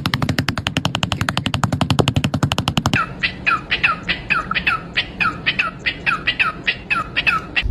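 A fast, even rattle of about a dozen clicks a second. About three seconds in it gives way to a quick run of short chirps, about five a second, each falling in pitch, from a pet parrot doing imitations.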